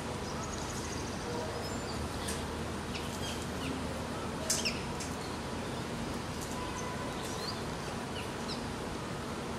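Scattered short, high bird chirps, some sweeping downward, the loudest about four and a half seconds in, over a steady background hiss and faint hum.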